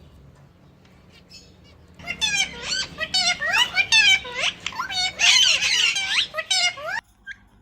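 Budgerigars chattering and warbling: a dense run of quick rising and falling chirps that starts about two seconds in and stops shortly before the end.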